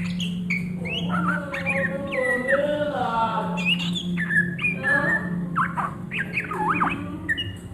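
Oriental magpie-robin (kacer) singing a varied, continuous song of whistled slides, chatters and harsher squawky notes. A steady low hum runs underneath.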